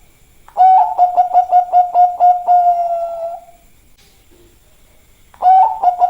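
Zebra dove (Bangkok-bred perkutut) singing its cooing song: a quick run of short staccato notes that runs into a longer held note, lasting about three seconds. After a pause, the next song starts near the end.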